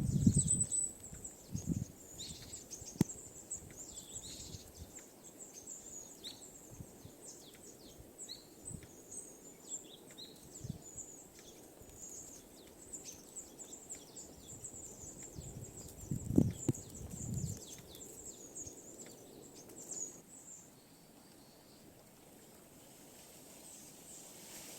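Small birds chirping, many short high calls, which stop about twenty seconds in. A brief louder low sound comes around sixteen seconds in.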